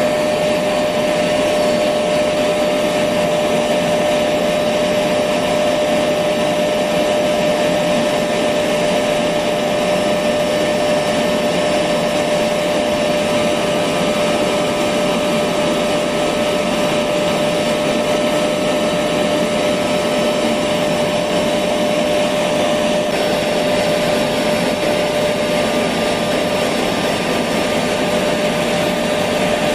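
Electric vacuum cleaner running steadily, a constant whooshing motor noise with a steady whine, played as white noise to lull a baby to sleep.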